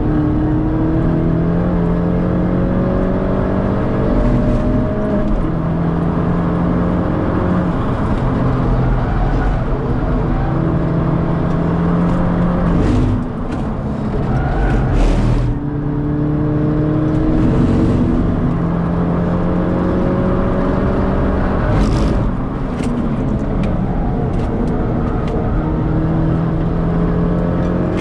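In-cabin sound of a modified Mini Cooper S R56's turbocharged 1.6-litre four-cylinder driven hard on track, the pitch climbing through each gear and dropping at each upshift. About halfway through it eases off briefly, with a few short sharp noises, then pulls hard through the gears again.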